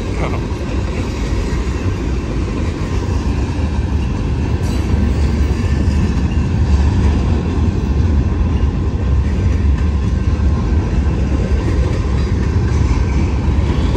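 Freight train cars, tank cars and then flatcars, rolling past at a grade crossing: a steady rumble and clatter of steel wheels on the rails.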